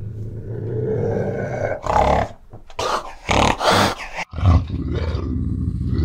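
An animal growling, with several short, loud calls between about two and four seconds in, then a sudden break and a steady low rumble.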